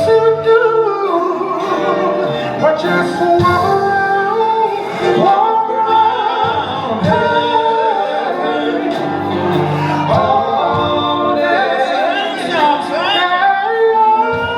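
Live gospel singing: a solo voice sings long held notes with sliding runs over musical accompaniment.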